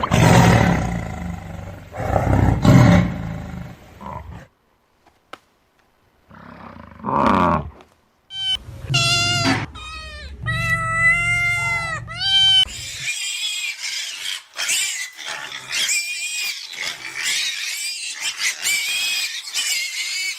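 Lion roaring in two heavy surges over the first four seconds. Later come a string of high calls that bend in pitch, then dense high-pitched chattering calls to the end.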